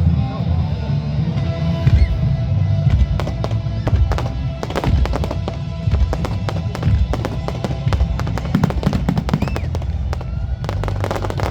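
Fireworks going off in quick succession, a run of sharp bangs and crackles starting a couple of seconds in, over music with a heavy bass.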